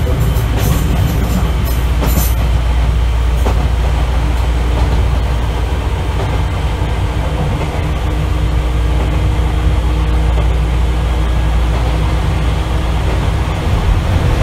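Izukyu 8000 series (ex-Tokyu 8000) electric train, heard loud from inside motor car KuMoHa 8157 while running between stations: a steady deep rumble of motors and wheels on rail. A few sharp wheel clicks over rail joints come in the first couple of seconds.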